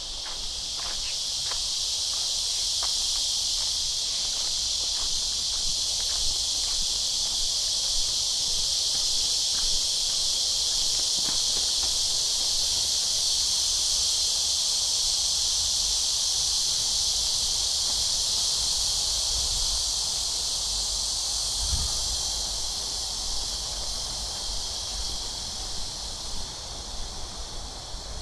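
Cicadas buzzing in a steady, high-pitched chorus that swells in over the first couple of seconds and eases off a little after about 20 seconds. Light footsteps on a garden path are heard in the first few seconds.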